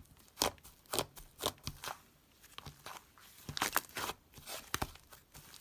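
Slime being squeezed and pressed by hand, giving a string of irregular sharp crackles and pops.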